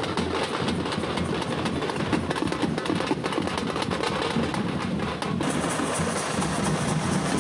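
Tamate frame drums, hide drums beaten with two sticks, played together by a drumming group in a fast, dense, continuous rhythm. The sound grows brighter about five seconds in.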